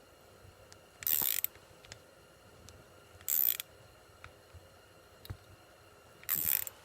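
Ratchet wrench clicking in three short bursts, a couple of seconds apart, as a nut is worked down onto the shock shaft against some resistance.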